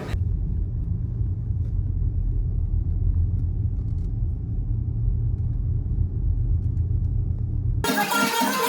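Steady low rumble of a car on the move, heard from inside the cabin. It cuts off suddenly near the end, and guitar music takes over.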